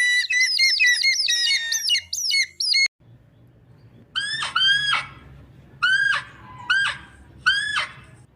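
Birds calling: a dense mix of many high chirps and tweets for about three seconds, then a single bird giving a loud, repeated squawking call five times, each call dropping and then rising in pitch.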